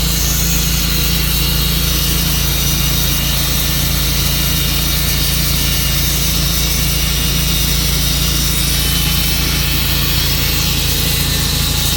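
Portable sawmill's engine running steadily at an even, unchanging level.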